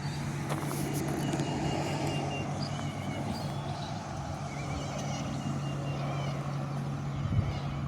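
Distant engine rumble, steady and slowly fading, with small birds chirping.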